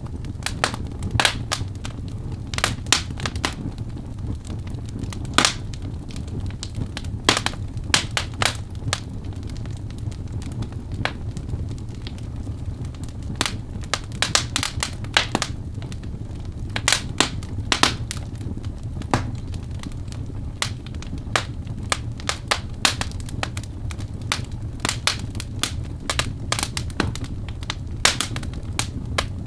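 Wood fire in a fireplace crackling, with sharp irregular pops and snaps, some in quick clusters, over a steady low rumble of the burning.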